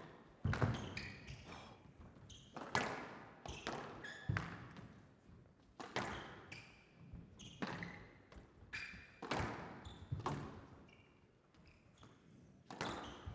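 Squash rally: the ball cracks off rackets and thuds off the court walls in a quick irregular series, with sharp squeaks from court shoes between the shots.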